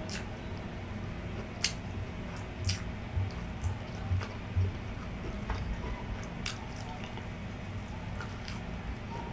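Close-miked chewing of grilled street food: wet squishing and lip smacks with sharp mouth clicks here and there, over a steady low hum.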